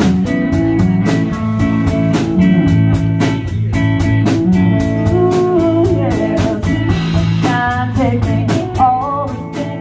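Live blues-rock band playing: electric guitar, bass and drum kit with a steady beat, and a singing voice that comes in near the end.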